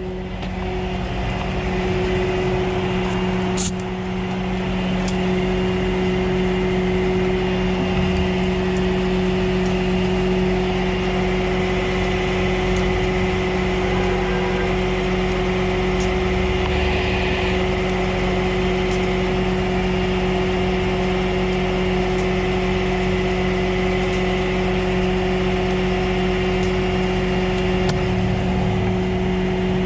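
Tow truck's engine running steadily with a constant low drone. A single sharp knock comes about four seconds in, and a brief hiss a little past halfway.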